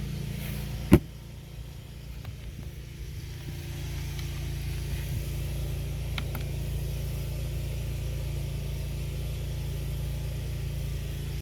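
Steady low hum of a running motor, with one sharp knock about a second in.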